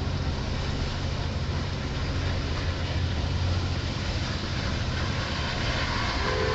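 Diesel commuter train running with a steady low engine hum that grows slightly louder. A multi-note train horn starts just before the end.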